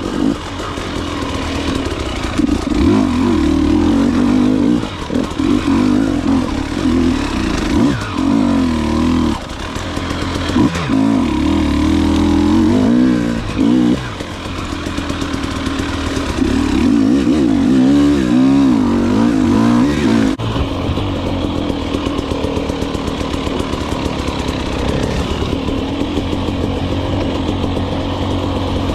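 Dirt bike engine running, revving up and down as the throttle opens and closes, with a few brief dips, then holding a steadier note for the last third.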